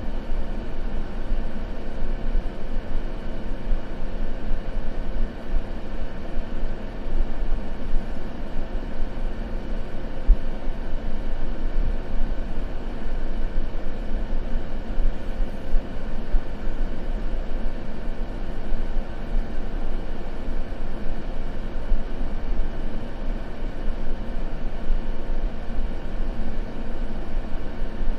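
Continuous white-noise ambience: an even, unchanging rushing hiss weighted toward the low end, like a soft rumble.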